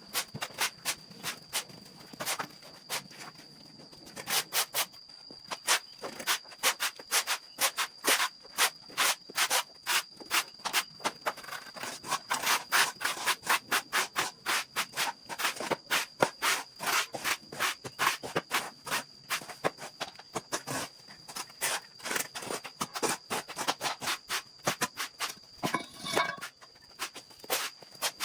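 Bristles scrubbing a hard surface in quick, irregular strokes, a few a second, busiest about halfway through.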